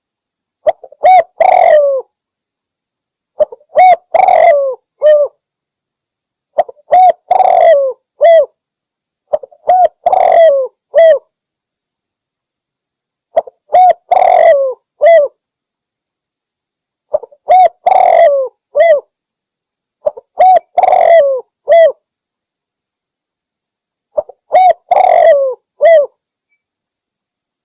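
Spotted dove (derkuku) cooing: a short phrase of several coo notes, repeated about every three seconds with silence between, loud and clear.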